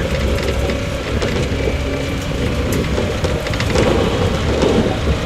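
Running noise inside a JR 115 series electric motor car (KuMoHa 115) at speed: a steady rumble of wheels on rail with scattered light clicks, and a faint hum of machinery over it.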